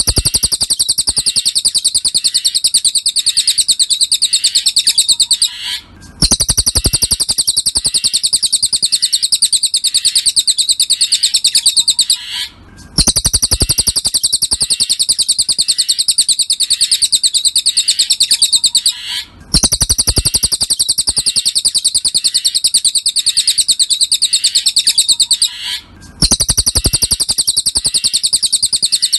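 Cililin song bird singing a rapid, high-pitched run of chirps, many per second, in phrases about six seconds long with brief pauses between them. This is a masteran recording, made for caged songbirds to learn from.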